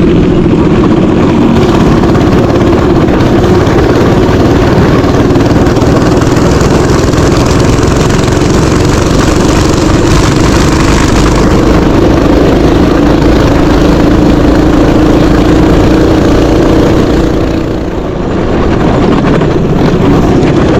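Mini bike engine running steadily under throttle at a held pitch, easing off briefly near the end before picking back up.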